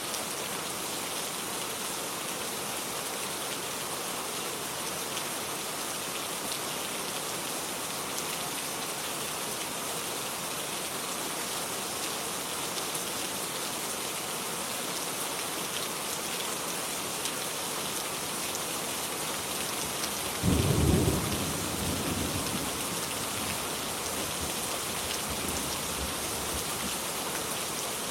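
Steady rain falling, with a single loud low clap of thunder about two-thirds of the way through that rumbles away over several seconds.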